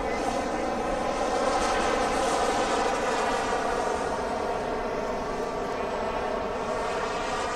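Kerosene-fuelled turbine engine of a 1/6-scale F-16 model jet in flight, a steady engine rush that swells slightly about two seconds in and drifts gently in pitch.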